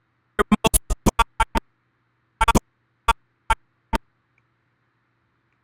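Short, chopped fragments of a promo soundtrack played in brief stuttering snippets, as when audio is scrubbed along a video-editing timeline: a rapid run of about eight snippets in the first second and a half, a short cluster a little later, then three single snippets about half a second apart, stopping about four seconds in.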